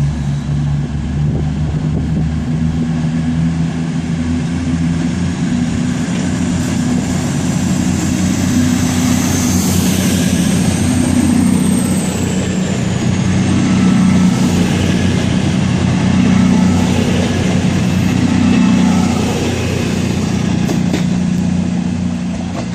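CrossCountry Class 221 Voyager diesel-electric unit, with a diesel engine under each car, pulling out of the station: a steady engine drone that grows louder as the cars pass. A faint high whine falls in pitch about ten seconds in.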